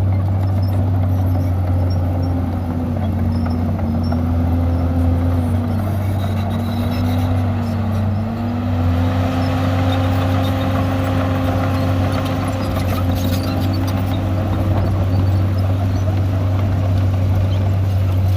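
Heavy diesel engine of earthmoving machinery running under load, its pitch dipping and recovering several times in the first half, then holding steady.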